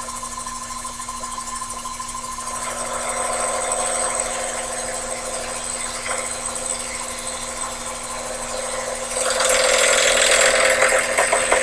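Sherline lathe running while a part turned between centers is cut. The cutting noise grows about two and a half seconds in, and a louder rattle sets in near the end, the funny noise of a piece of copper wire rattling as the work spins.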